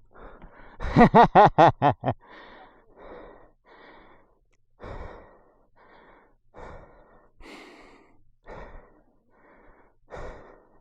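A man breathing hard and out of breath: a quick run of loud, voiced huffs about a second in, then heavy breaths about once a second.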